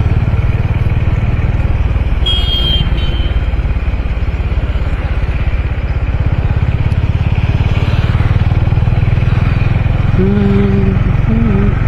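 Honda H'ness CB350's single-cylinder engine running at a steady cruise, a continuous low rumble of even firing pulses.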